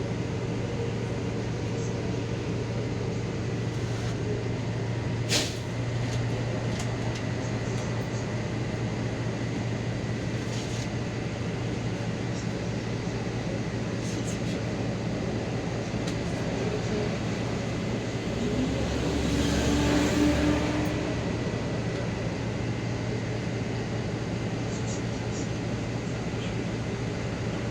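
Inside a city bus in motion: a steady engine hum, with one sharp click about five seconds in and a swell of deeper engine rumble and road noise around twenty seconds in.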